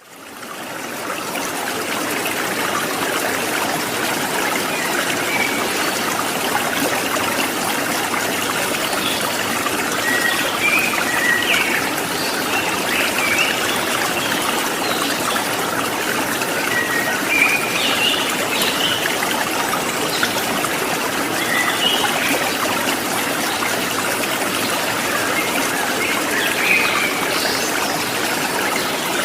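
Water trickling and splashing steadily, fading in over the first second or two, with small birds chirping here and there from about a third of the way in.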